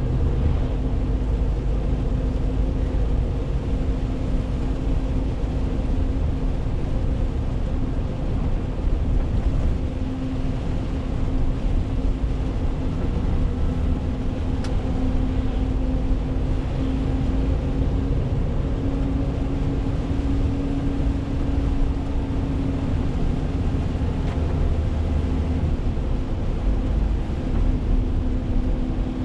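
Renault T520 truck's 13-litre diesel engine running steadily on the road, with tyre and road noise under it; the engine hum wavers slightly in pitch.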